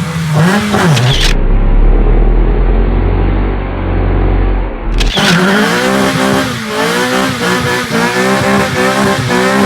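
Honda Shadow Phantom's V-twin engine running through a louder custom exhaust, its pitch rising and falling with the throttle. A deep low rumble takes over from about a second in until about five seconds in, where the sound changes suddenly and the revving comes back.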